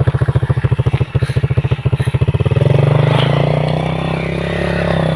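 Motorcycle engine running at low revs with distinct, evenly spaced beats, about a dozen a second. It is opened up about two and a half seconds in, the pitch rising and holding steady at higher revs, as the bike works uphill on a muddy track.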